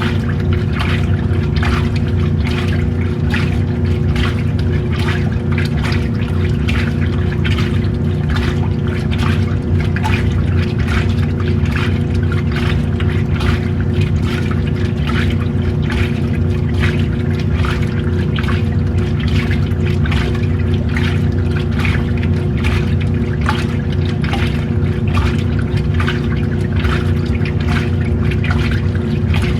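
Old-style washing machine running: a steady motor hum under continuous sloshing and splashing of water as the load is churned.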